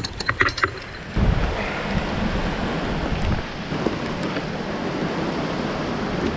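Wind buffeting the microphone and rain noise while a mountain bike is ridden along a wet, muddy trail, with a few sharp clicks in the first second.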